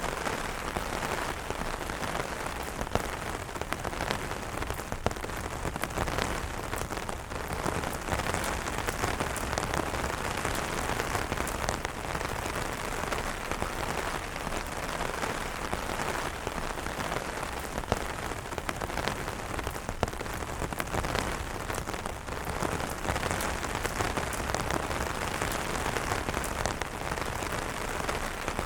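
Steady rain falling on umbrellas: a dense hiss of rain with many distinct drops tapping on the fabric.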